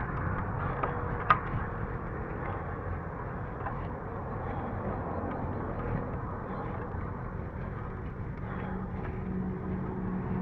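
A road vehicle running steadily, engine hum under a constant road-noise hiss, with one sharp click a little over a second in.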